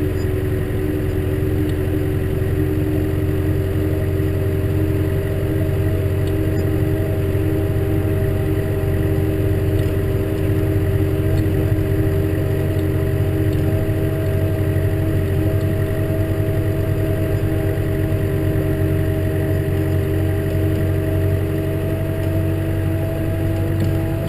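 Case tractor engine running steadily under load with a low drone, its pitch creeping up slightly near the end.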